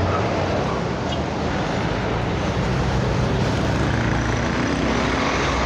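Busy road traffic: a steady mix of engine rumble and tyre noise from passing vehicles, including heavy ones.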